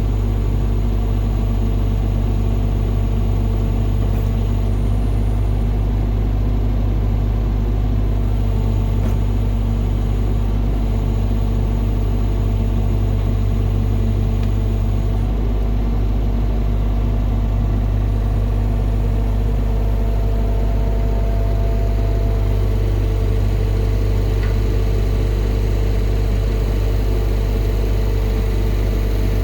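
An engine idling steadily: a low, even hum that holds the same speed throughout, with no revving.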